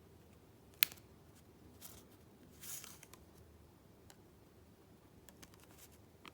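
Paper handling: a sharp click a little under a second in, then a short rustle and a longer rustling swish of paper, followed by a few faint taps.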